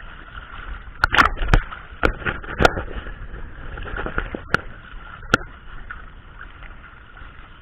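A series of sharp knocks, about seven in the space of four seconds and bunched near the start, from work on a fishing boat, over a steady background hum.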